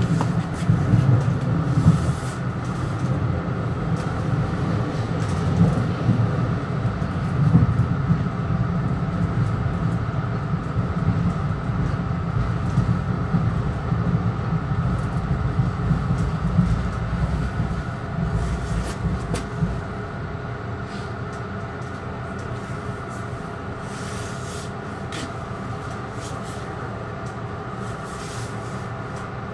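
Metro-North commuter train heard from inside its front car: a steady rumble of wheels on the rails, with a faint steady hum and scattered clicks. About two-thirds of the way through the rumble drops and the sound goes quieter as the train slows.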